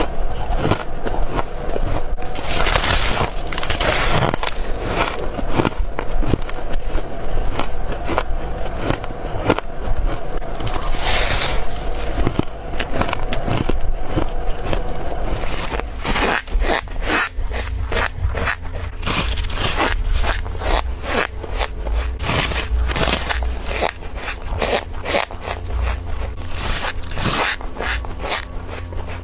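Freezer frost being bitten and chewed close to the microphone: dense, crisp crunching with squeaks. About sixteen seconds in, the bites come faster and more tightly packed.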